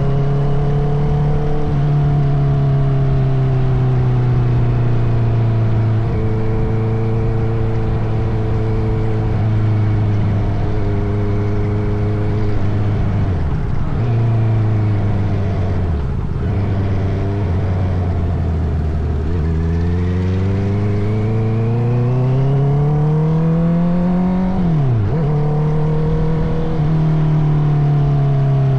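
Honda CBR650R's inline-four engine through an Akrapovic titanium exhaust, heard on the move. The note eases down slowly and dips sharply twice in the middle. It then climbs for about five seconds, falls abruptly at a gear change near the end, and holds a steady cruise.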